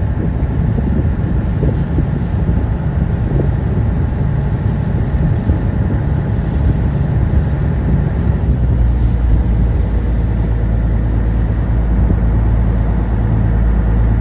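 Sightseeing boat's engine running steadily with a low drone, over a hiss of noise. About eight or nine seconds in, the drone deepens and grows stronger.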